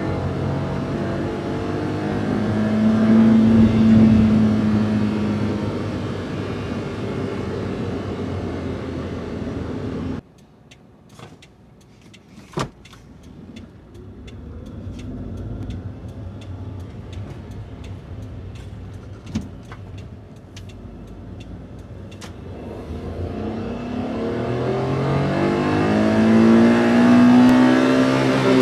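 Daihatsu Hijet kei van's 660 cc three-cylinder engine, stock intake and exhaust, accelerating and then easing off. The engine sound drops away abruptly about ten seconds in, leaving a quieter stretch with a few sharp clicks. It then builds again in a long rising acceleration near the end.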